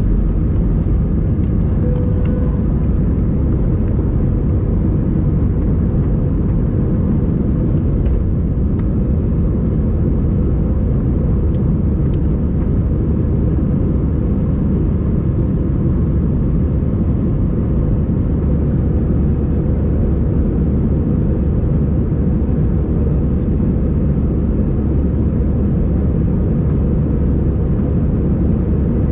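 Steady drone inside the passenger cabin of an Airbus A320 under way: the engines and the airflow make an even low rumble that holds at one level throughout.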